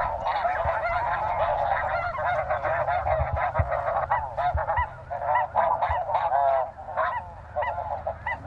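A large flock of snow geese calling, a constant din of many overlapping high, barking honks.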